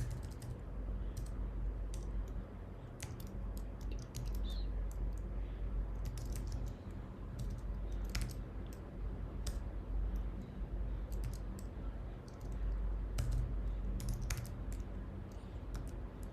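Computer keyboard typing: scattered, irregular keystroke clicks over a steady low hum.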